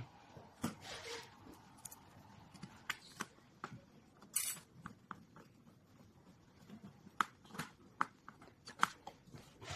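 Scattered light clicks, taps and knocks of parts being handled and fitted during assembly, with a short scraping rustle about four seconds in.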